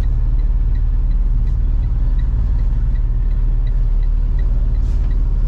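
Box truck engine and road rumble heard from inside the cab while driving slowly, with a faint regular ticking about three times a second.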